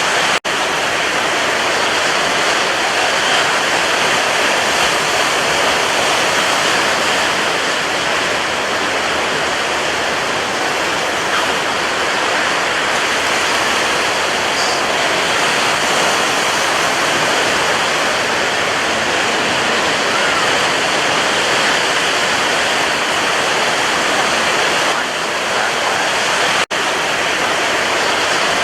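Sea waves breaking as a continuous, steady wash of surf, cut by two split-second gaps, one about half a second in and one near the end.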